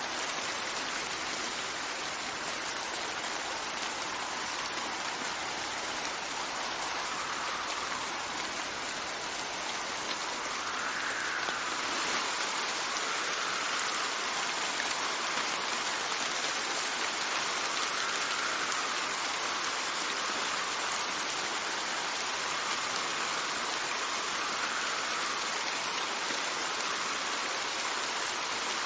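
Steady rain with wind, an even hiss that gets slightly louder about twelve seconds in.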